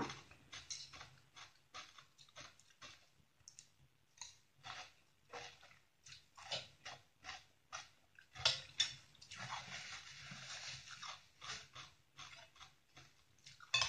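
A person chewing a mouthful of crisp shredded chayote (fak maew) salad, in short, irregular crunches; the salad is very crunchy.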